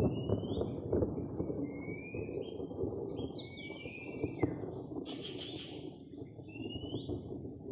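Oriental magpie-robin giving a short rising whistled call over and over, about five times, roughly one every second and a half. A thin steady high tone runs behind it, over a constant low rustling noise.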